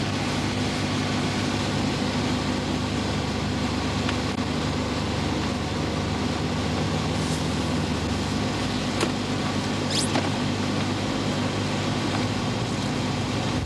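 A motor vehicle's engine running steadily, a low hum that shifts in pitch about eight seconds in, with a few faint ticks.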